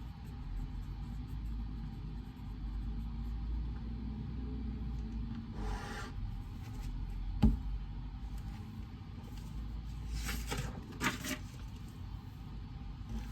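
Reading-room ambience: a steady low hum under a few short rubbing sounds and one sharp tap about seven and a half seconds in.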